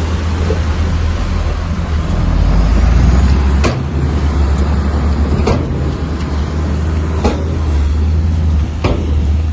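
Bulldozer's diesel engine running steadily under load, with four sharp metallic clanks at even spacing, about one every two seconds, through the second half.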